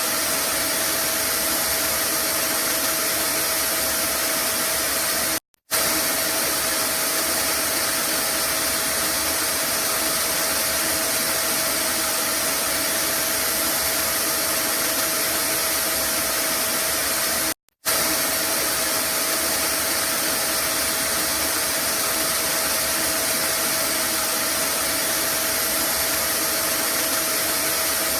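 Vacuum cleaner running steadily, a constant whooshing hum with a faint whine, used as white noise to soothe a baby. It cuts out for a split second twice, about twelve seconds apart.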